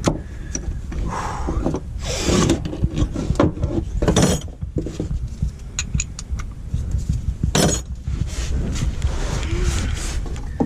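Hands and tools working on metal under a truck: scattered knocks, scrapes and small clinks, with a few sharper knocks, over a steady low rumble.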